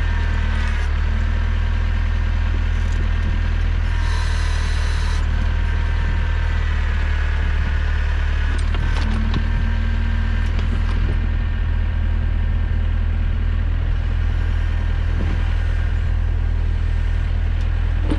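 Trident 404 compact tractor's engine running steadily under load while its backhoe hydraulics work, with a thin whine above the engine note and a few sharp knocks.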